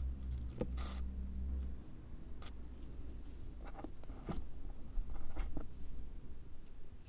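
Small handling sounds from hands-on miniature work: a short rustle about a second in, then a handful of scattered light taps and clicks, over a steady low hum.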